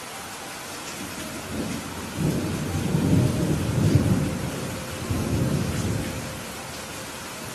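Rolling thunder over steady rain. The rumble builds about a second and a half in, is loudest in the middle and dies away near the end, while the rain hiss goes on underneath.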